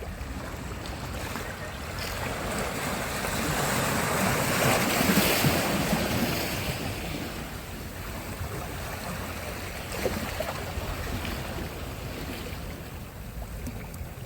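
Sea surf: a wave swells and breaks, its wash peaking about five seconds in and then fading, over a steady low rumble of wind on the microphone.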